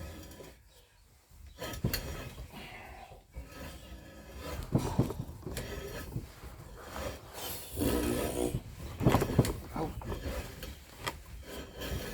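Metal vice parts and hand tools being handled and worked on: irregular knocks, clinks and scraping, busier and louder in the second half.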